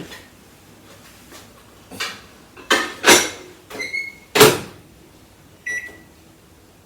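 Microwave oven being set going again for another 30 seconds: several clunks of the dish and door, the loudest near the middle as the door shuts, then two short keypad beeps. The tempering needs more time because the mustard seeds have not yet spluttered.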